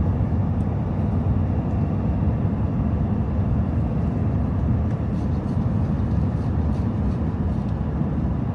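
Steady road and drivetrain rumble heard from inside a Ford Super Duty pickup's cab while driving at highway speed.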